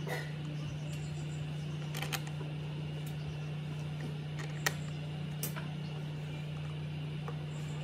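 A few short, sharp clicks and taps, the kind made by handling small parts or tools, over a steady low hum.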